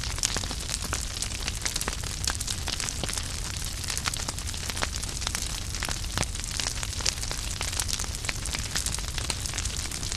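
Wood fire in a fireplace crackling, with many small irregular pops and snaps from the burning logs over a low, steady rumble of the flames.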